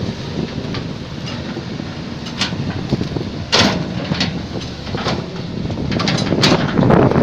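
Excavator working: a steady low mechanical rumble with scattered metallic clanks and knocks, the loudest about halfway through. Wind noise on the microphone builds near the end.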